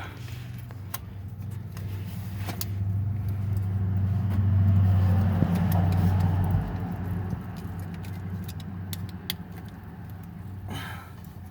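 A low vehicle engine hum that swells from about four seconds in and fades by about seven, with scattered light clicks.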